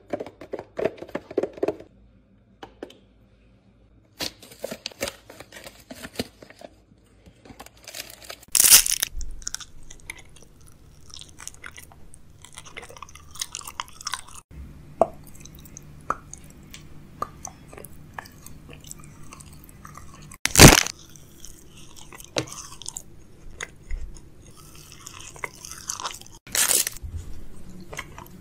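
Close-miked eating: a person chewing and crunching food into the microphone, with many small crunches and three much louder sharp bites spread through.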